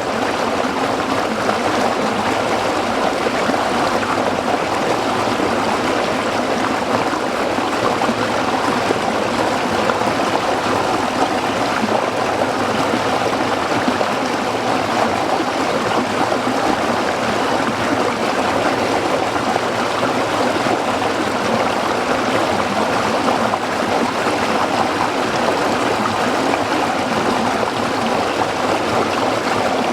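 A small stream running and burbling over rocks, steady and unbroken.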